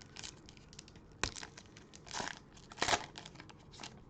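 Plastic cellophane wrapper of a trading-card cello pack crinkling and tearing as it is ripped open, in several short bursts, the loudest nearly three seconds in.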